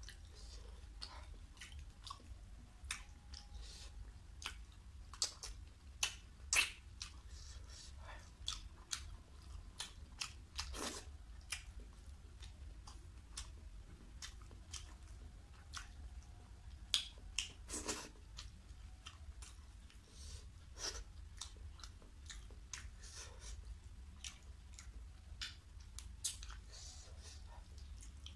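Close-up eating sounds of a man eating rice and curry with his hand: wet chewing with frequent, irregular sharp smacks and clicks, over a steady low hum.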